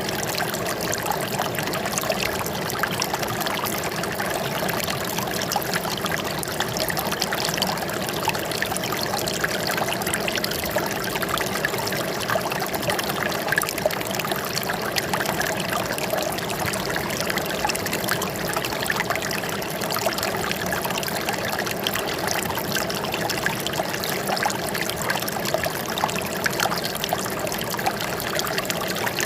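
Running water trickling and splashing steadily, an even, unbroken rush with no change in level.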